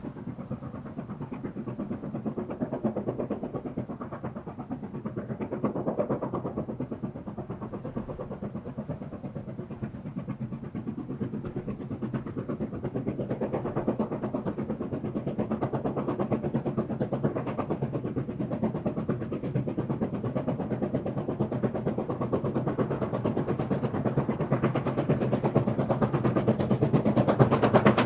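QJ-class steam locomotive working hard, its rapid exhaust beats growing steadily louder as it approaches.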